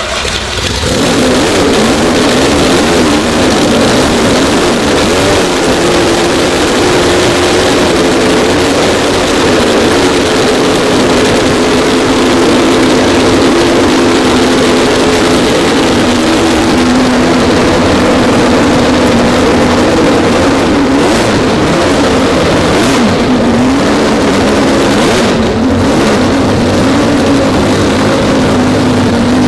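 Twelve-rotor Wankel rotary engine on its first start, catching about a second in and then running loudly and steadily, its pitch wavering up and down.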